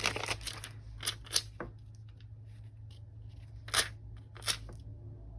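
Scissors cutting paper: a few short snips about a second in and two louder crisp snips near the end, with light paper handling at the start.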